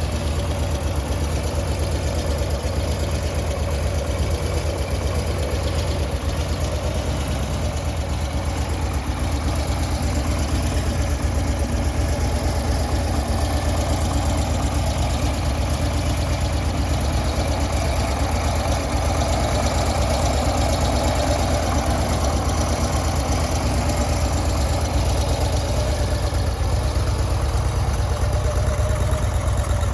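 A 2008 Harley-Davidson Road King Classic's Twin Cam 96 air-cooled V-twin idling steadily through its mufflers.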